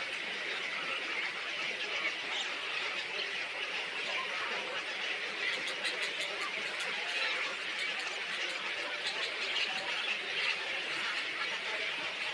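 A dense, steady chorus of many small birds chattering and chirping, with a run of short sharp clicks about halfway through.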